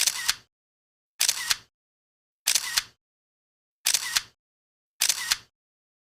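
Camera shutter clicking five times in a row, about one shot every second and a quarter, each shot a quick double click, with dead silence between shots.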